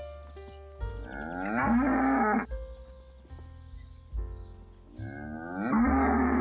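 Dairy cow mooing twice, each moo loud and about one and a half seconds long, the second starting about five seconds in.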